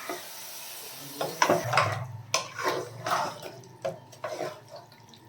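Mutton sizzling in hot oil and spices while a spatula stirs and scrapes it around the pot in repeated strokes, the meat being sautéed (kosha) on medium flame.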